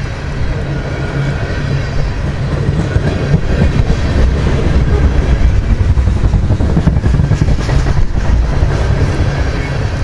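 Freight cars of a long train rolling past, with steel wheels clacking over the rail joints above a steady rumble.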